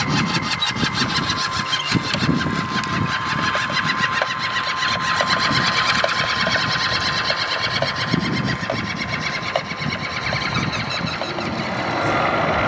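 A 1/16-scale RC truck's small electric motor and gearbox whining steadily as it drives, with a fast, even rattle over the top.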